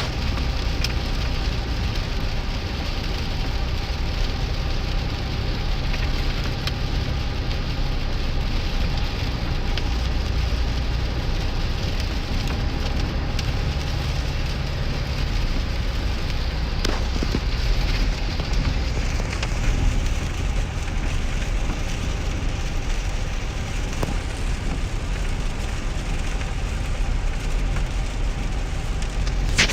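Heavy rain pouring on a 2001 GMC Sierra pickup, heard from inside the cab while driving. It is a steady patter on the roof and windshield with scattered sharp drop hits, over a low rumble of engine and tyres on the wet road.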